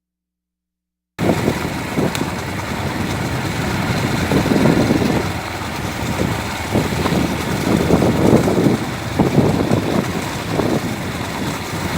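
Silence for about a second, then cutting in suddenly to the steady running noise of a moving motor vehicle, engine and rumble with some wind, heard while riding along.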